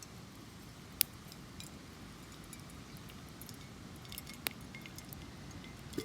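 Small wood fire in a Bushbox twig stove crackling, with scattered faint ticks and two sharp clicks, the loudest about a second in and another about four and a half seconds in.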